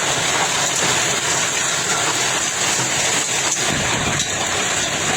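Heavy thunderstorm rain falling, a steady dense hiss.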